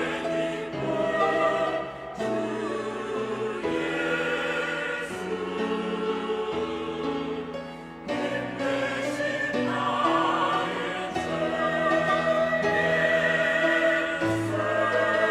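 Church choir singing a hymn in several parts, with held notes and brief breaks between phrases about 2 and 8 seconds in.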